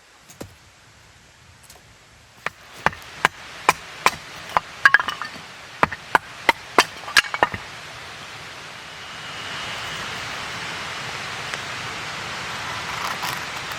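Firewood being chopped: about a dozen sharp wooden knocks in quick succession, roughly two a second. They are followed, from about nine seconds in, by a steady hiss.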